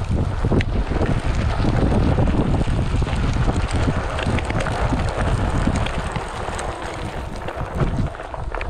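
Wind buffeting the action camera's microphone over the low rumble of a Onewheel XR's tyre rolling on a dirt trail, with scattered small clicks from grit and gravel.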